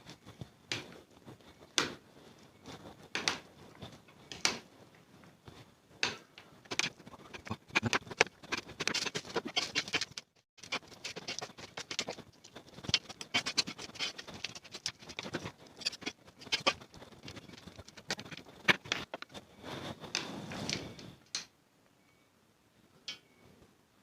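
Close-up eating of instant noodles: wet slurps and chewing with scattered sharp clicks, with two longer stretches of slurping about a third of the way in and again near the end.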